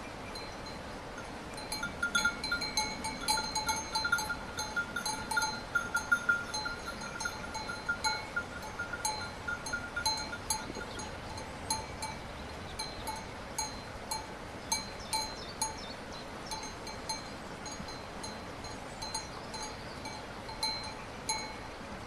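Metal bells clanking at irregular intervals, each strike ringing at the same few fixed pitches. The strikes come several a second and are busiest in the first half, thinning out later, over a steady background hiss.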